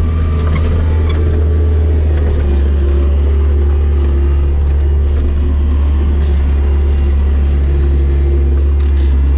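Bobcat S205 skid-steer loader's diesel engine running steadily as a loud low drone, its tone shifting slightly a couple of times as the machine works.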